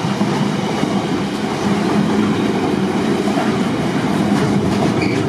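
A train running past on the track: steady, loud rolling noise of wheels on rail with a low hum underneath.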